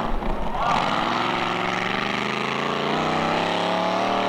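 Monster truck's big engine revving up, its pitch climbing steadily for about two seconds and then holding high and steady.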